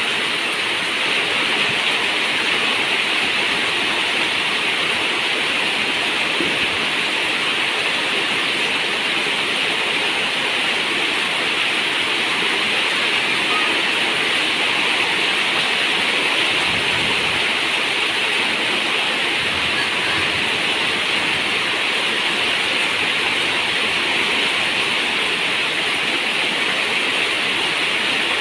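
Steady rain falling on a zinc roof, a constant even hiss of water.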